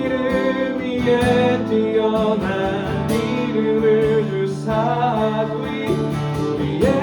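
Acoustic guitar strumming with voices singing a Korean worship song.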